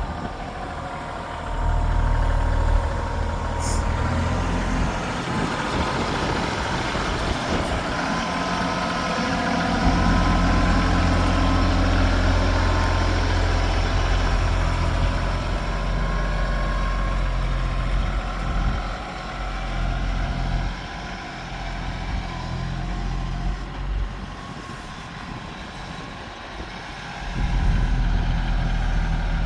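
Tractor engine running while clearing snow, its low drone growing louder and softer by turns, easing off for a few seconds near the end before picking up again.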